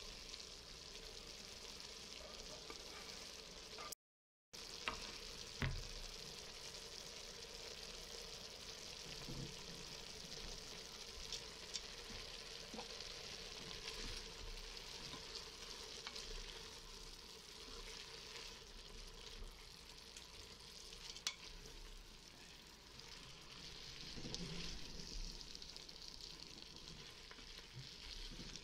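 Grated carrots, onions and meat strips sizzling in an Instant Pot's stainless steel inner pot while being stirred with a wooden spoon, with an occasional knock of the spoon against the pot. The sound cuts out for a moment about four seconds in.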